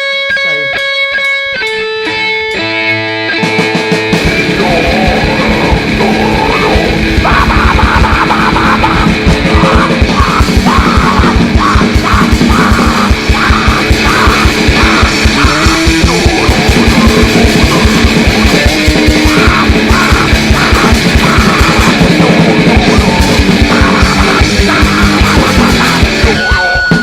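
Live grindnoise band music: a guitar riff plays alone for the first few seconds, then the drums and distorted guitar come in about four seconds in and the band plays at a very fast tempo.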